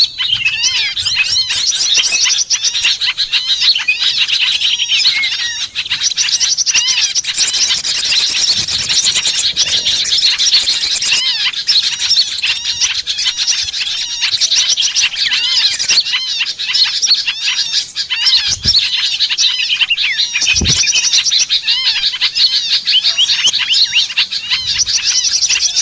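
Dense chorus of many small songbirds chirping and twittering at once, rapid overlapping high calls that never pause: a flock-call recording played to lure small birds in.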